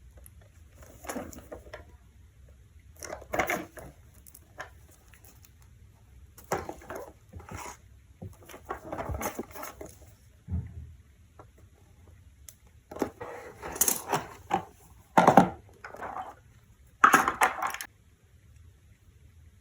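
Handling noises from a small die-cast model tow truck: irregular short bursts of scraping and clicking, a second or so apart, the loudest near the end.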